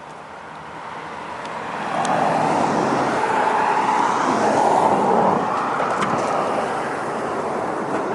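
A vehicle passing on a nearby road: tyre and engine noise swells over about two seconds, holds, then slowly fades.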